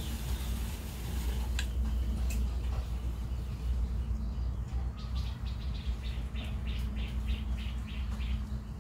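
A bird chirping: a quick, even run of short high chirps, about four a second, in the second half, over a steady low rumble.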